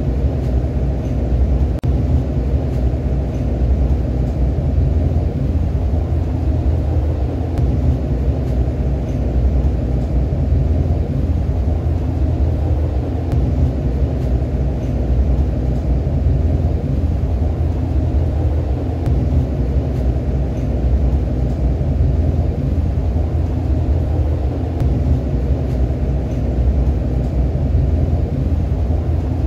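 Steady low rumble of a REM Alstom Metropolis light-metro train running along the line, heard from inside the passenger car.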